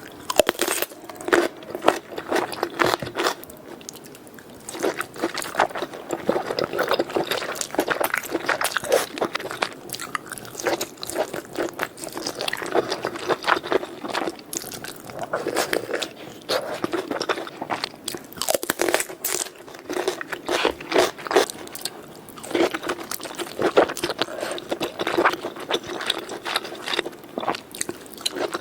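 Close-miked eating: crunchy bites and wet chewing of seafood, a dense, irregular run of sharp crackles and clicks.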